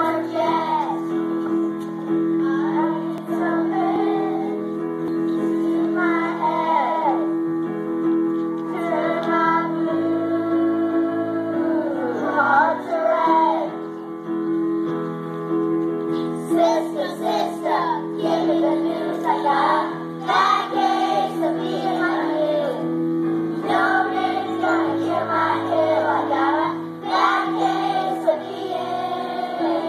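A song: a voice singing in phrases over steady held instrumental notes.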